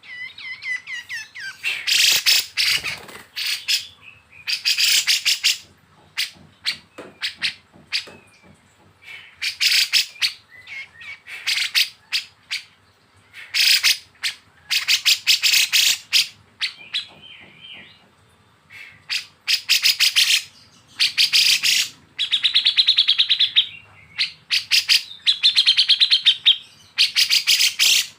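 Kapas tembak and cucak jenggot bulbuls singing their besetan: harsh, rapid chattering bursts a second or two long that come again and again, some breaking into quick trills.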